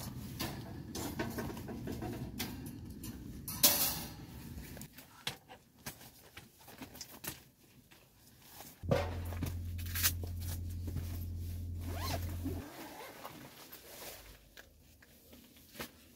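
A zipper being pulled, among scattered clicks, scrapes and rustles of handling gear. A steady low hum comes in about nine seconds in and stops sharply after roughly four seconds.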